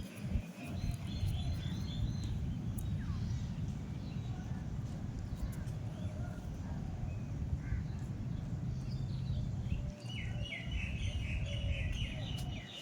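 Birds chirping outdoors over a steady low rumble, with a rapid run of repeated chirps near the end.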